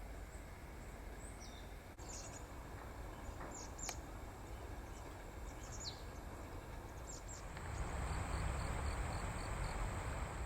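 Small birds calling: short, high chirps that slide downward, heard several times, over a steady thin high whine. About eight seconds in, a broad rushing noise rises, with a quick row of faint high pips over it.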